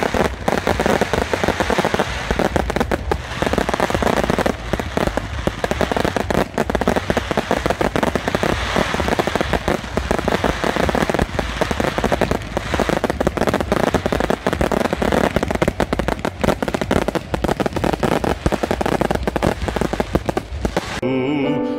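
Fireworks display: a dense, continuous barrage of bangs and crackling, many shots overlapping. It cuts off abruptly near the end, where music starts.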